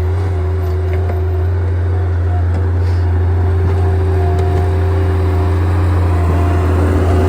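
A steady, loud engine hum with a low drone and a constant whining tone above it, unchanging throughout.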